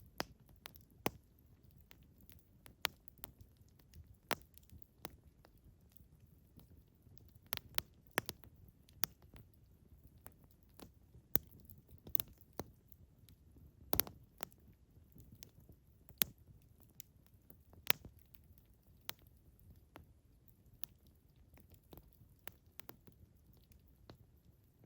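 Wood campfire crackling: irregular sharp pops and snaps, a few much louder than the rest, over a low steady rumble of the burning fire.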